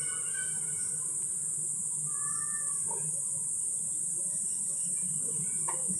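Insects chirring in a steady high-pitched drone, with a short arching bird call about two seconds in.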